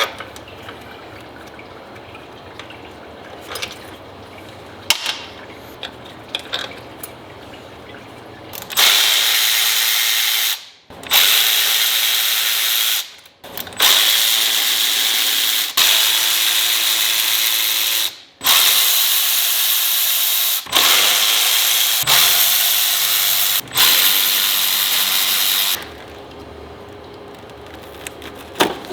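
Power tool run in a series of loud, hissy bursts with short breaks between them, after several seconds of light clicks and knocks of hand work.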